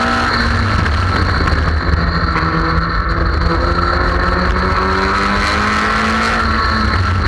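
Car engine heard from on board at track speed, with wind and road noise. Its pitch drops about a second in, then climbs steadily as the car accelerates.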